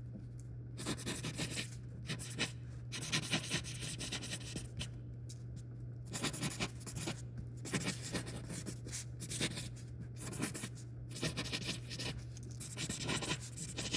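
Writing on paper: a pen or pencil tip scratching across the page in short runs of strokes, with brief pauses between words.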